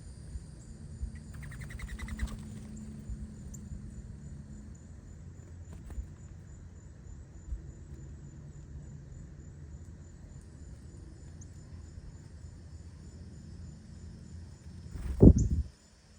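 Backyard ambience with insects buzzing steadily and high. About a second and a half in, a bird gives a short fast trill. Near the end comes a loud low thud with a brief falling rumble.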